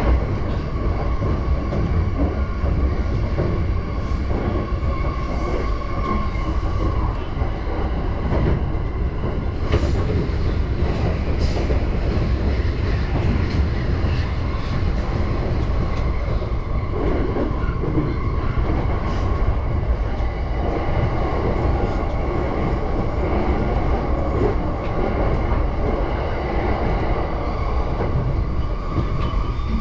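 JR Yamanote Line commuter train running steadily between stations, heard from inside the car: an even rumble of wheels on rail with a steady hum, and a few clicks of the wheels over rail joints about ten seconds in.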